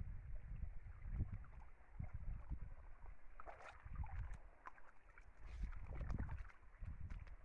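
Small forest stream running, with wind gusts buffeting the microphone as low rumbles. Scattered clicks and crackles come in from about halfway through.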